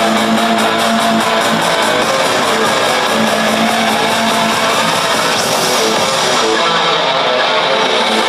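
Live concert music at full volume, led by strummed electric guitar.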